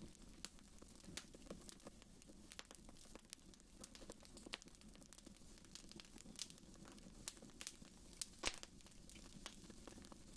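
Wood fire crackling in a fireplace: faint, irregular pops and snaps, with the sharpest pop about eight and a half seconds in.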